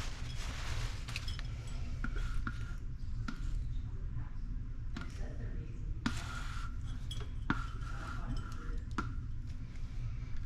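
Hand tools clinking and tapping on plumbing fittings under a sink while a leaking reverse osmosis storage tank is being tightened: a scattered series of about eight sharp clicks, some with a short ring, over a steady low rumble.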